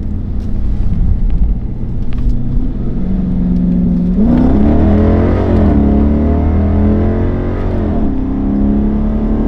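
Straight-piped 5.7-litre Hemi V8 of a Chrysler 300 S running steadily, then pulling hard under full throttle from about four seconds in, its pitch rising and falling. The revs drop near the end as a paddle-shifted gear change comes.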